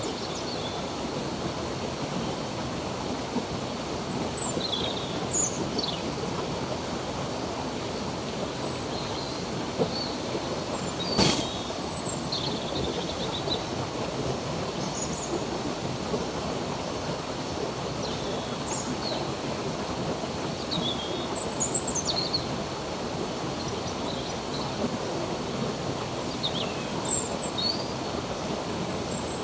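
Stream water running steadily, with small birds giving short chirps here and there throughout. One sharp click about eleven seconds in.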